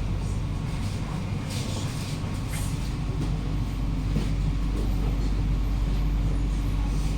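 Steady low rumble and hum inside the passenger carriage of a Kawasaki-CRRC Qingdao Sifang C151A MRT train, with a few brief hisses about one and a half to two and a half seconds in.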